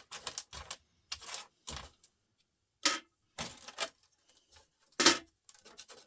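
Small laptop parts clicking and clattering on a hard surface as they are handled and sorted into scrap piles: a run of short, sharp knocks, the loudest about three and five seconds in.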